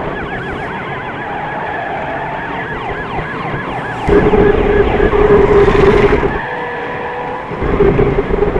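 Emergency siren in a fast yelp, the pitch sweeping up and down about four times a second for the first three and a half seconds. A louder steady hum comes in about four seconds in, drops out after six, and returns near the end.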